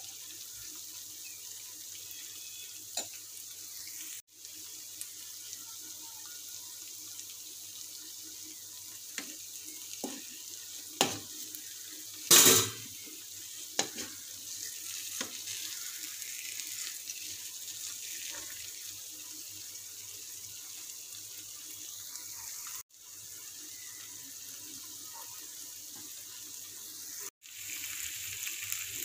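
Chicken in thick masala gravy sizzling steadily in a pan, with a few knocks of a steel slotted spoon against the pan, the loudest about twelve seconds in. The sizzle drops out briefly three times.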